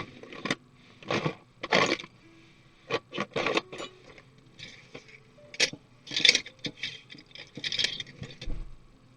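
Laptop parts being handled and taken apart: an irregular run of short scrapes, clicks and small clatters.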